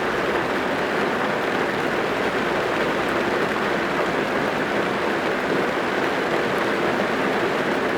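Steady rain falling on a car's roof and windows, heard from inside the car: an even hiss of many drops with no single hits standing out.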